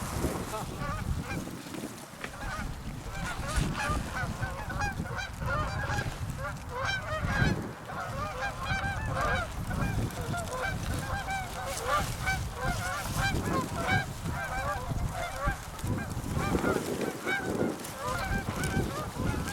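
A flock of Canada geese honking and clucking, many short calls overlapping one another without a break.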